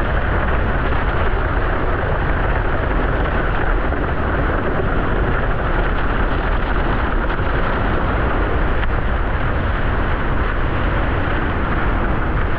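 Loud, steady wind buffeting on a camera microphone while windsurfing at speed in strong, gusty wind.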